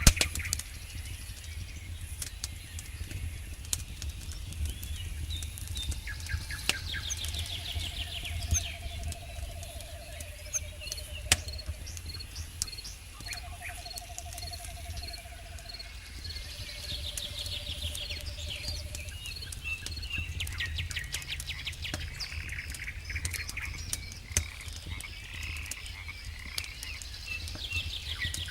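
Wood campfire crackling with scattered sharp pops, while frogs call with short trills and night insects and birds chirp.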